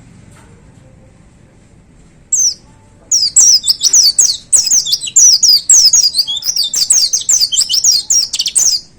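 White-eye (pleci) singing: one short high call about two seconds in, then a rapid, loud run of high, down-slurred whistled notes lasting about six seconds that breaks off abruptly near the end.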